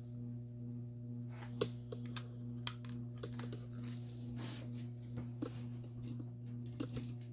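Irregular sharp clicks and short rustles of a small plastic device and USB cord being handled and plugged in, over a steady low hum.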